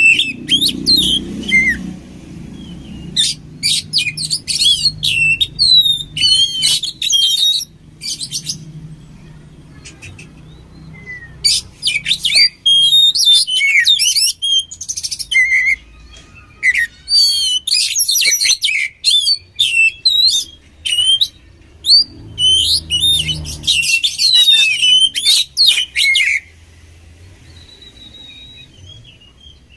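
Oriental magpie-robin (kacer) singing: fast, varied whistles and chattering phrases, given in bursts with short pauses between them.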